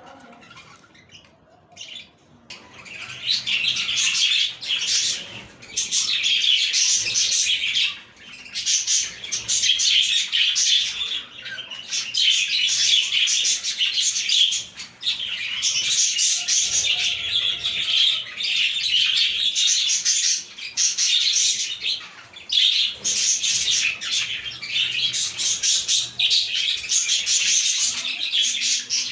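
Budgerigars warbling and chattering together, a dense run of fast high chirps that starts about two seconds in and comes in bouts with short pauses between them.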